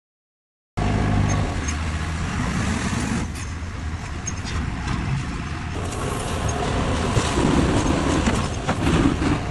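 Self-loading concrete mixer's engine running steadily under a dense mechanical noise. It starts abruptly about a second in, and the sound changes abruptly near the middle.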